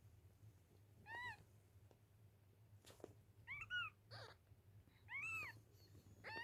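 Newborn kittens mewing: several short, high-pitched mews, each rising and falling, about a second or two apart.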